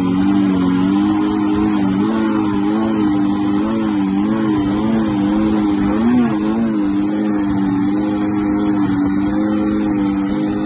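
Turbocharged Honda F20B four-cylinder engine of a mid-engine CRX pulling at steady revs while driving on sand, heard from inside the stripped cabin. Its pitch wavers up and down in quick swells, with a brief rise about six seconds in.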